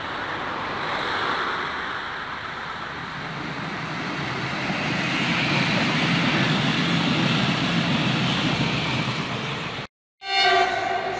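Croatian Railways low-floor passenger multiple unit passing close by: a steady rush of wheels on rail that grows louder as the train goes past. After a sudden cut near the end, a locomotive horn sounds briefly as a chord of steady tones, the loudest moment.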